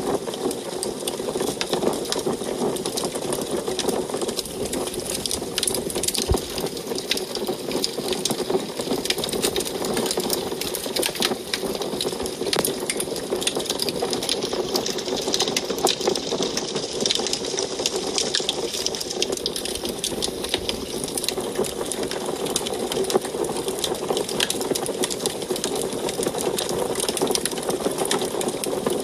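Wood fire burning in an antique wood stove: dense, steady crackling with many small snaps over a low, even rush of the flames.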